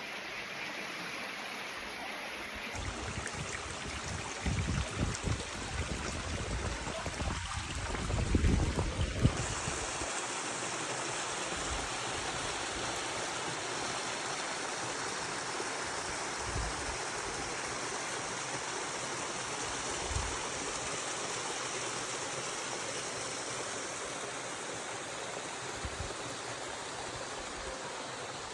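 Spring-fed waterfall and stream water rushing steadily, with a few low bumps on the microphone about a third of the way in.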